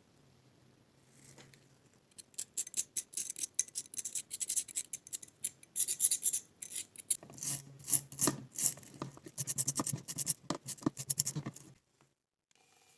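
Rusted steel pipe-wrench parts being scrubbed by hand to clear rust during vinegar de-rusting: quick rasping strokes, several a second, starting about two seconds in and cutting off suddenly near the end.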